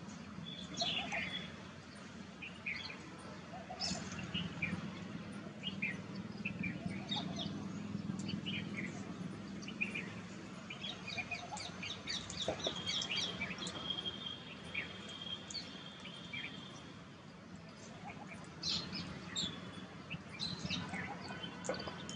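Small birds chirping with many short, scattered calls, and a high note held for a few seconds about halfway through. A steady low hum runs underneath.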